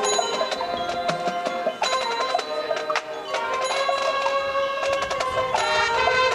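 Marching band show music: sustained pitched tones with sharp mallet-percussion strokes, typical of a front ensemble playing bells and marimba.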